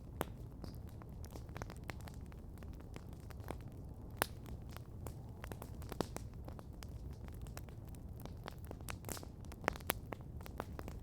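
Wood campfire crackling, with scattered small snaps and a few sharper, louder pops, over a steady low rumble.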